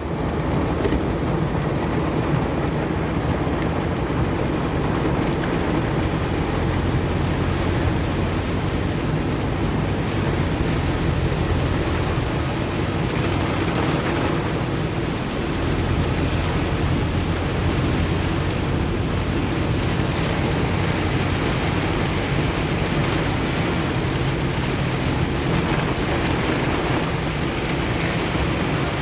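Heavy downpour beating steadily on a car's roof and windshield, heard from inside the car, with a steady low hum of engine and tyres beneath.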